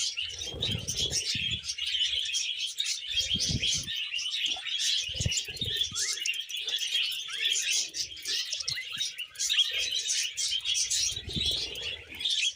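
Several budgerigars chirping and warbling without a break, their chatter dense and busy. A few short, low fluttery thumps come and go under the chatter.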